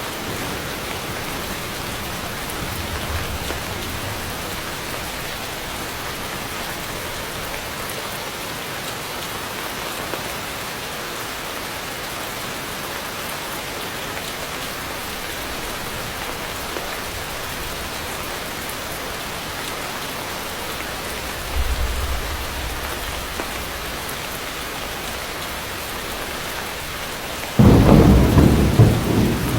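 Heavy rain falling steadily, with two short low thunder rumbles, one early and one about two thirds through. Near the end comes a sudden, much louder thunderclap that keeps rolling.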